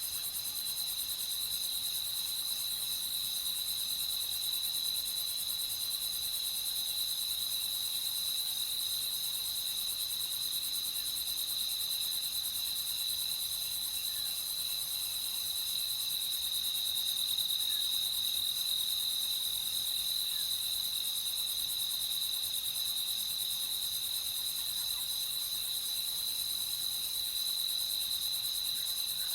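Crickets chirping in a continuous night chorus: a steady, unbroken high-pitched trill with a fainter hiss above it.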